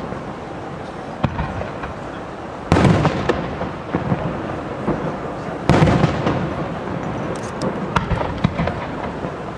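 Japanese aerial firework shells bursting in a display. Two loud booms about three seconds apart each rumble away, followed near the end by a scatter of sharper pops and crackles.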